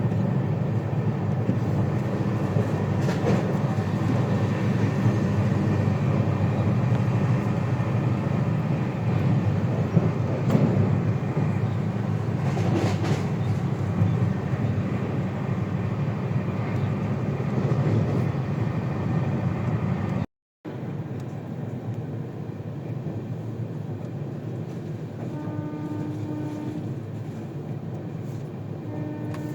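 Train running: a steady rumble of a moving train. It breaks off for an instant about two-thirds of the way in, then carries on a little quieter, with a faint steady tone near the end.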